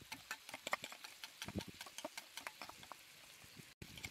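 Food frying in oil: light, irregular crackling pops over a faint hiss.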